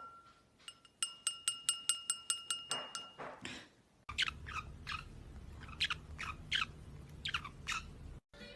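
A rapid, even run of ringing clicks, about six a second, for two seconds. After a cut, a bird gives about eight short chirps, each falling in pitch, over a low hum.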